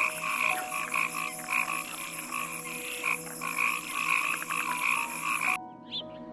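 A dense chorus of animal calls: many short, repeated croaks overlapping, over a fast, high trill. It cuts off abruptly about five and a half seconds in, leaving faint chirps.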